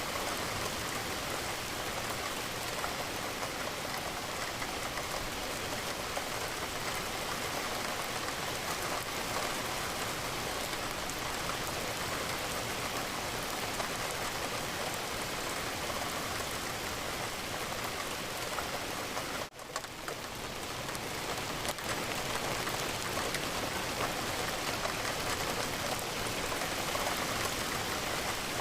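Steady rain falling and pattering against a window. About two-thirds of the way through, the sound drops out for an instant and swells back up over a couple of seconds.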